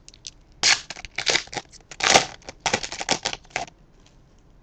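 Trading cards being slid and flicked against each other as a pack is leafed through: a quick run of short scraping and clicking sounds from about half a second in, stopping near the end.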